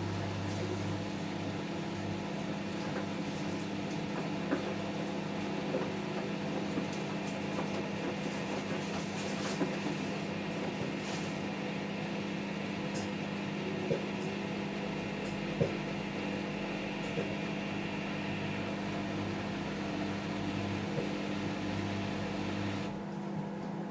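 Samsung Eco Bubble washing machine running mid-wash on a cotton cycle: a steady motor hum with a few light knocks from inside the drum now and then.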